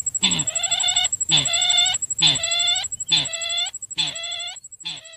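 Lure call for the sintar bird: six short, fowl-like calls repeated about once a second, each a clucking tone rich in overtones, over a faint steady high whine.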